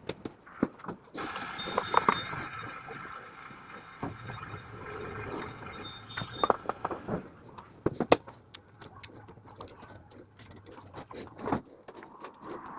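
Petrol pump nozzle filling a motorbike's fuel tank, a steady rush of liquid from about a second in to about seven seconds, with scattered clicks and knocks around it.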